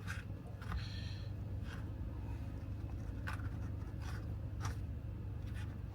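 Rubber golf grip rubbing and scraping in short, scattered strokes as it is rolled and worked down the club shaft by hand, over a steady low hum.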